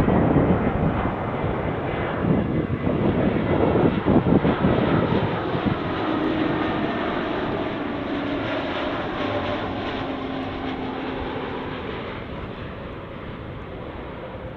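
Airliner passing low overhead on short final approach, its engine noise loud at first and then fading steadily as it moves away, with an engine tone that drops in pitch midway.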